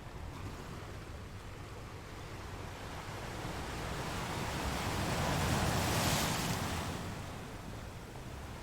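Sea waves washing against rocks: a wave swells in, breaks into a loud rushing wash about six seconds in, then recedes to a low steady surf.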